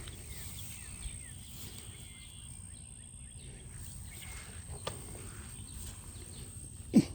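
Outdoor rural ambience: scattered short bird chirps over a low background hiss and a steady high-pitched whine, with one short, sharp sound near the end.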